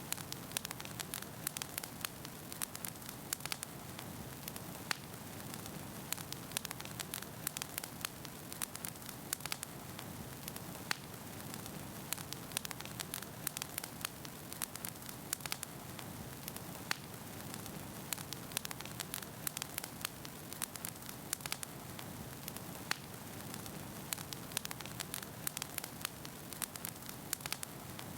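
Wood fire burning in a fireplace: a steady soft rumble and hiss of flames with frequent sharp, irregular pops and crackles from the burning logs.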